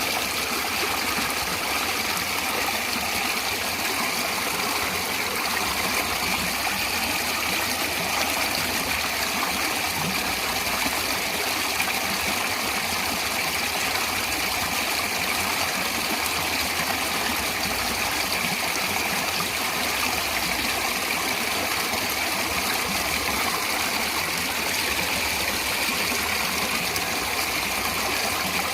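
Natural running water, a steady even rush with no pauses or changes.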